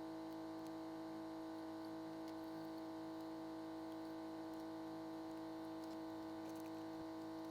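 Faint steady hum made of a few constant tones, with nothing else happening.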